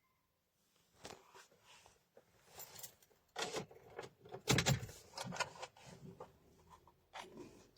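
A string of clicks, rattles and knocks, the loudest a dull thump about halfway through.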